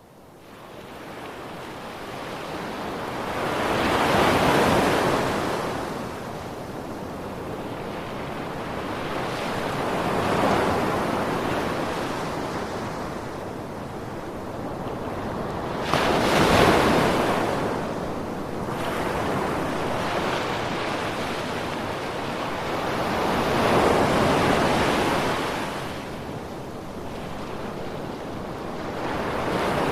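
Ocean waves breaking, a wash of surf that swells and falls back about every six seconds. It fades in from silence at the start, and the loudest wave arrives suddenly about sixteen seconds in.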